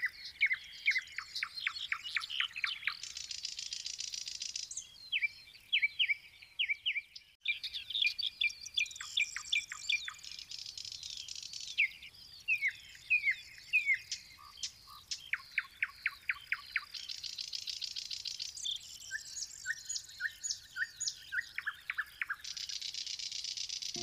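Songbirds singing: rapid series of sharp chirps and sweeping whistled notes, broken up by dense buzzy trills every few seconds, with a short pause about seven seconds in.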